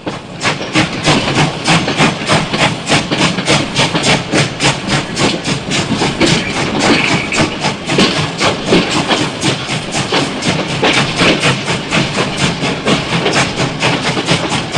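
Steam locomotive working steadily, its exhaust chuffing in rapid even beats of about three a second over a continuous hiss.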